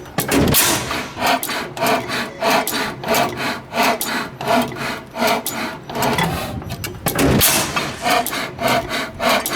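A 1908 Western 25 hp engine running with a steady rhythmic clatter of about two and a half beats a second. Two heavier, deeper strokes stand out: one just after the start and one about seven seconds in.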